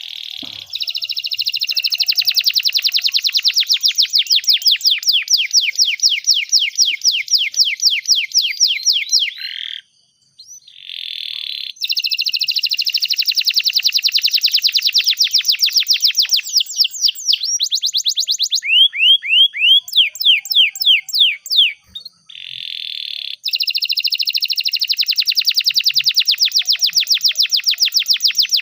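Domestic canary singing long, rapid trills of repeated high notes, about ten a second. The trills are broken twice by a short pause and a buzzy note, with a stretch of slower, falling notes in the middle.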